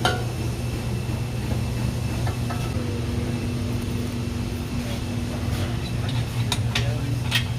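A steady low hum throughout, with a few sharp metallic clinks near the end as exhaust pipe sections and hardware are handled and fitted.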